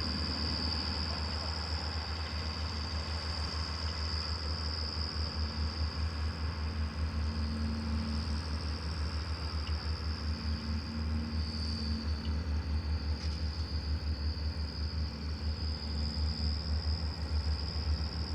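Tractor diesel engine running steadily, a deep pulsing rumble with a steady high whine above it.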